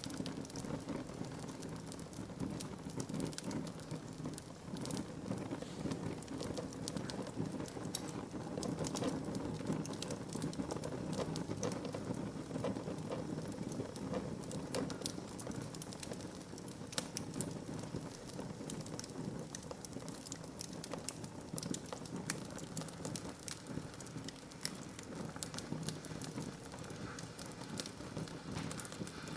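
Wood fire burning in a fireplace: a steady low rush of flames with many sharp crackles and pops from the burning logs scattered throughout.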